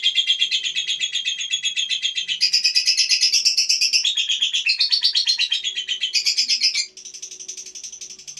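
Lovebird giving a long, unbroken, very fast chattering trill that shifts up and down in pitch, dropping noticeably quieter about seven seconds in.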